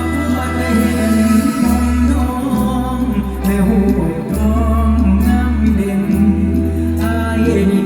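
Live mor lam band music: long held bass notes changing every second or two, under a melody with singing.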